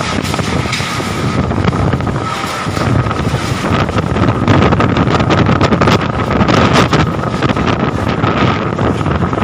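Strong gusty wind buffeting the microphone, growing louder about four seconds in. A steady high tone runs under the rush of the wind.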